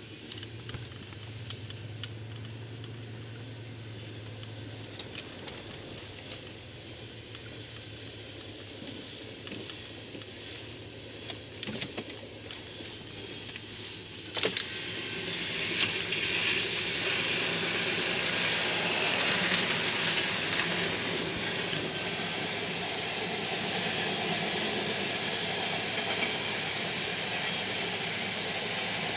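Grain train of BNSF covered hopper cars rolling past at a grade crossing: a steady rolling noise of steel wheels on rail. A sharp knock comes about halfway through, and from then on the noise is much louder and brighter.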